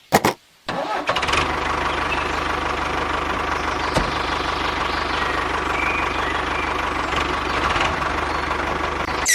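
Small engine starting and then running steadily, with a fast, even knocking beat.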